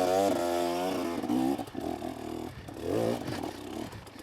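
KTM 250SX two-stroke dirt bike engine revving up and down under load on a steep climb, in short throttle bursts that turn choppy in the middle and ease off near the end.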